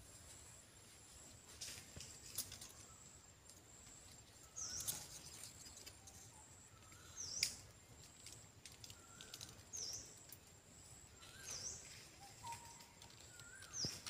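A bird's short call, a high chip with a lower note, repeated about every two seconds from about five seconds in. A faint steady high whine and a few soft clicks run underneath.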